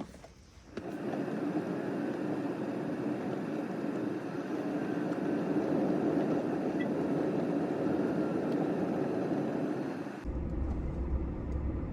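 A river's water rushing steadily and evenly. Near the end it gives way to a low rumble of wind on the microphone.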